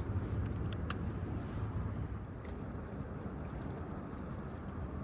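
Faint water lapping and dripping against a kayak hull over a steady low background rumble, with two light clicks just under a second in.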